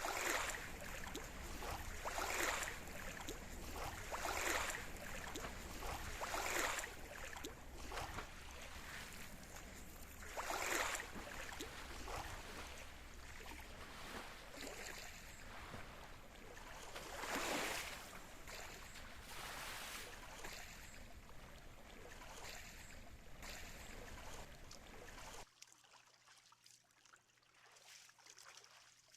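Sea water splashing and sloshing in repeated swells, about one every two seconds at first and then more spread out, over a low steady rumble. The sound drops suddenly to much quieter near the end.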